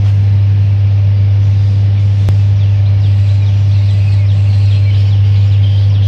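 Fledgling bird begging, with rapid, short, falling high-pitched chirps starting a couple of seconds in, over a loud steady low hum.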